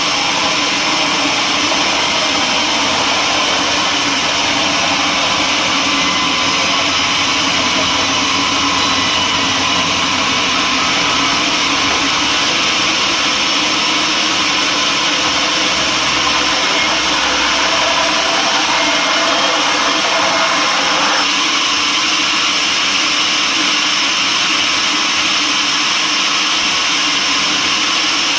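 Sawmill machinery running steadily while sawing mahogany logs, a loud, unbroken mechanical noise with a slight shift in tone about two-thirds of the way through.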